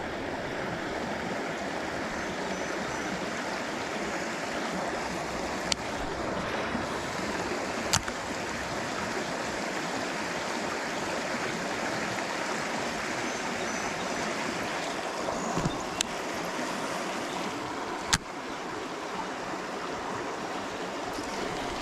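Creek water running steadily, with four sharp clicks spread through it, the loudest about eight seconds in and about eighteen seconds in.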